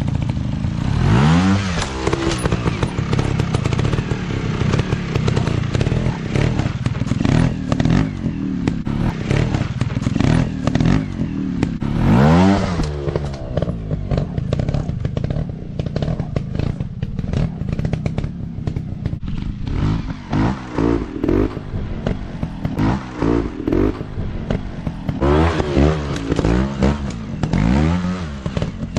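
Motocross dirt bike engines running hard off-road, the revs rising sharply under throttle about a second in, again midway, and in several quick blips near the end, with some clatter.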